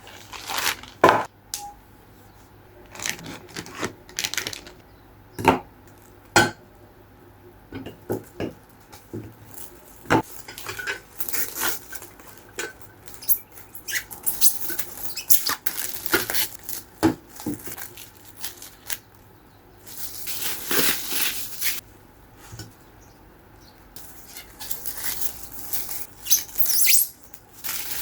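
Household items being handled: scattered knocks and clinks like dishes or utensils being set down, with several longer stretches of rustling or scraping.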